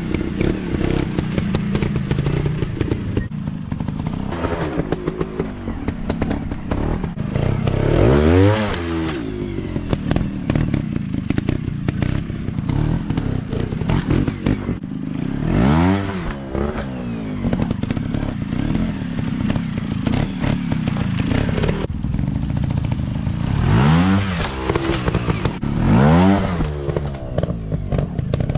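150 cc dirt bike engines running under throttle, with the revs swelling up and dropping back about four times. A steady clatter and knocking runs underneath.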